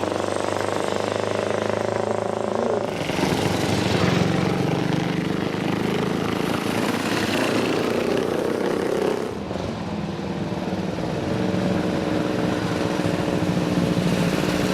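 Vintage motorcycle engines running; a louder, rougher engine sound comes in about three seconds in and drops away before the tenth second, leaving a steadier running note.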